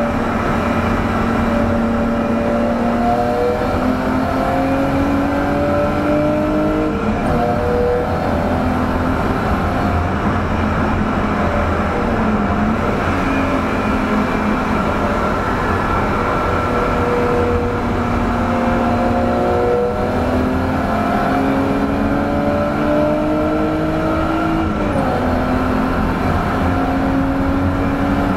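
1989 BMW E30 325i's 2.5-litre straight-six under hard acceleration on track, heard from inside the cabin: the engine note climbs in pitch and falls back several times as it changes gear, with a few brief dips as it lifts for corners, over road and wind noise.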